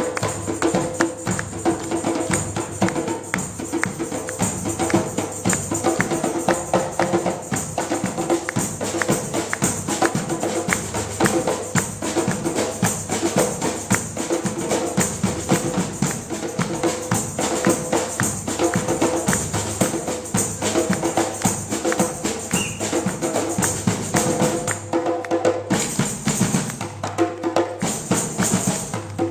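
A drum ensemble performing live: a fast, dense stream of drum strikes that keeps going without pause, thinning briefly about 25 seconds in.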